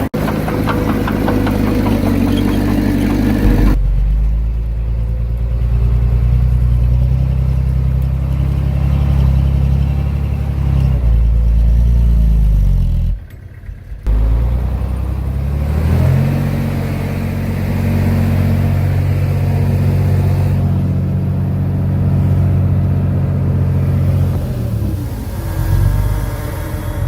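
Diesel engine of heavy earthmoving machinery running steadily, with a harsher, noisier stretch for the first few seconds. The sound changes abruptly about four seconds in, dips briefly around thirteen seconds, and the engine pitch rises and falls a little in places.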